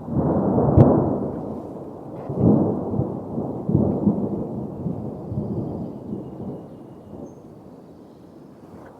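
Thunder rolling over steady rain. The rumble breaks in suddenly with a sharp crack about a second in, swells again twice, and dies away over the last couple of seconds, leaving the rain hiss.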